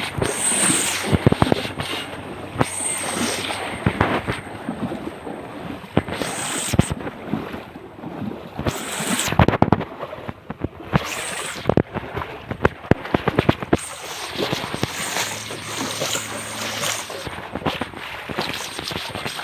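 A person wading through knee-deep floodwater: a splash and swish of water with each stride, coming irregularly every second or two.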